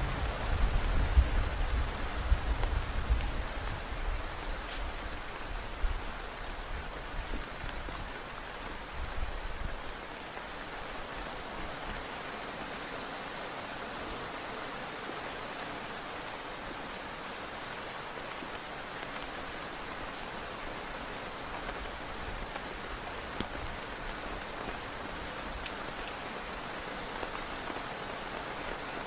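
Heavy rain falling steadily as an even hiss, with a low rumble during the first ten seconds or so that dies away.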